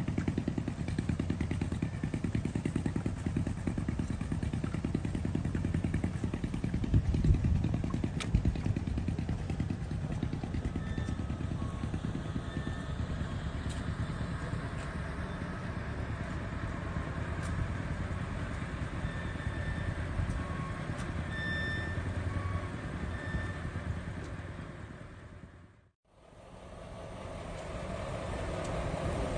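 An engine running steadily at low revs, with a few faint short high tones in the middle. Near the end the sound fades to a moment of silence and then returns.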